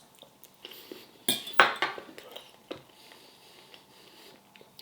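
Cutlery clinking and scraping on a plate while eating: a few short sharp knocks, the loudest about a second and a half in.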